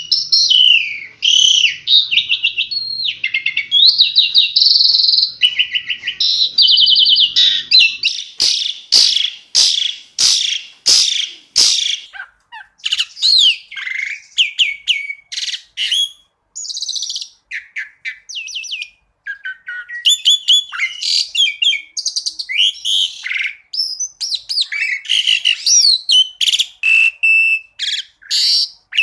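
Asian pied starling (jalak suren) singing a long, varied song of rapid trills, chirps and whistled glides, with a run of sharp clicks about a third of the way in.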